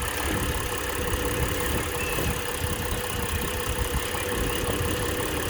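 Mitsubishi Pajero V6 engine idling steadily, heard close up in the engine bay. The engine has an intake manifold leak that is being traced by spraying around the manifold.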